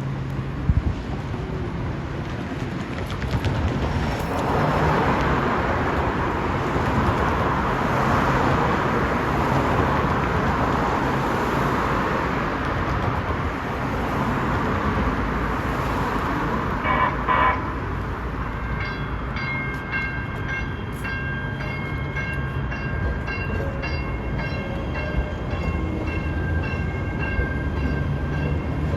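A Metro Rail train running past, its rumble and rushing noise swelling through the first half. About two-thirds of the way in there is a brief double horn sound, and after it high-pitched steady tones come and go over the train's running noise.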